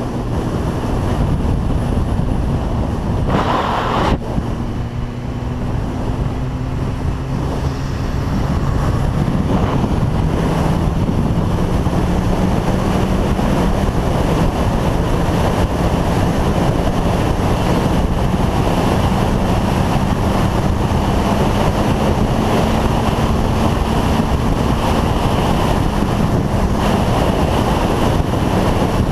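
Motorcycle engine running at steady speed under heavy wind rush on the microphone while riding on the road. The engine note rises a little and gets louder about eight seconds in, and there is a brief louder burst with a click about four seconds in.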